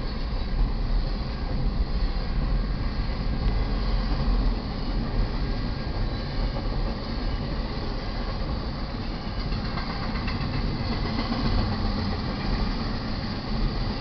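Double-stack container well cars of a freight train rolling past, a steady noise of wheels on rail.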